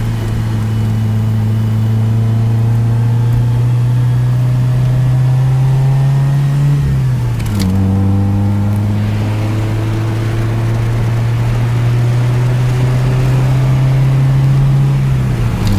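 Honda Civic's naturally aspirated, low-compression D16 SOHC four-cylinder engine pulling hard under load, heard from inside the cabin. The revs climb steadily, drop at an upshift about seven seconds in, then climb again and drop at another shift near the end.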